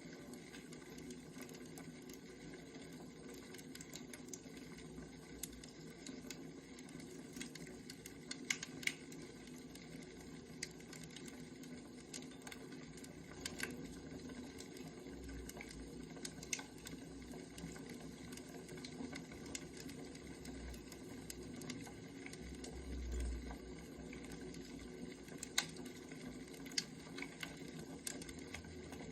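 Wood fire crackling: irregular sharp pops and snaps over a steady low hiss, with a few soft low thumps.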